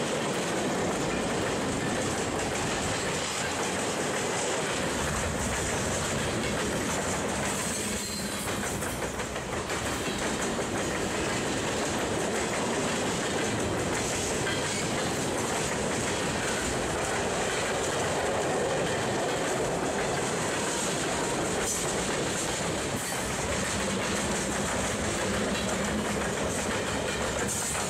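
Freight cars of a long mixed freight train (covered hoppers, tank cars and gondolas) rolling past close by: a steady, loud noise of steel wheels running over the rails.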